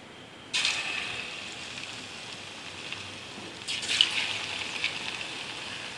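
Batter-coated cauliflower pieces going into a pan of hot oil and sizzling. The sizzle starts suddenly about half a second in, settles, then swells again just before four seconds as more batter hits the oil.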